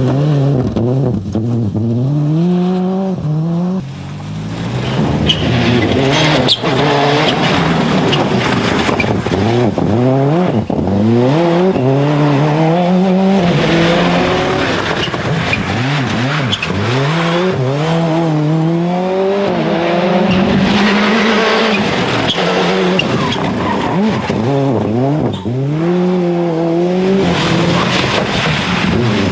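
Toyota Corolla WRC rally car's turbocharged 2.0-litre four-cylinder engine driven hard, the revs climbing and dropping back over and over as it shifts through the gears, with a short lift about four seconds in. Tyre squeal and skidding run under the engine.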